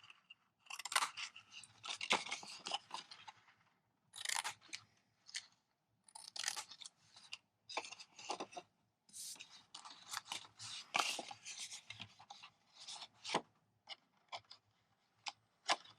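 Scissors snipping through designer series paper in short, uneven cuts, with the crinkle and rustle of the sheet being handled between cuts.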